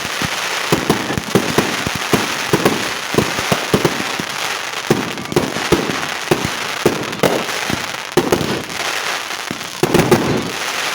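Fireworks going off: a rapid, uneven run of bangs and pops, several a second, over a steady crackle.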